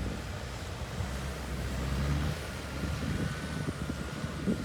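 Four-wheel-drive vehicle engine running under load while a truck bogged in soft beach sand is pulled free. Its low rumble eases off about two seconds in.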